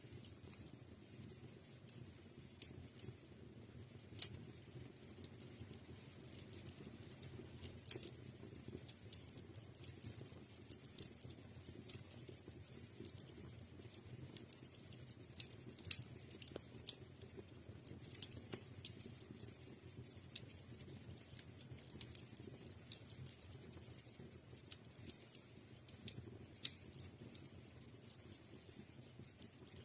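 Wood fire in a fireplace crackling: irregular sharp pops and snaps over a soft, steady low rush of the flames.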